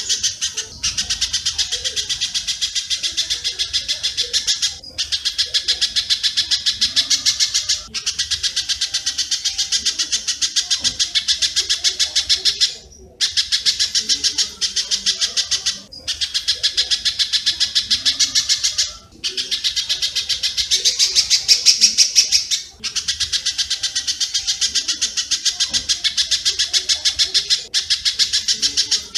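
Masteran birdsong recording of a spiderhunter (pijantung) mixed with swiftlet (walet) calls: a dense, rapid run of high, sharp chips, many a second, in phrases of three to four seconds broken by short pauses.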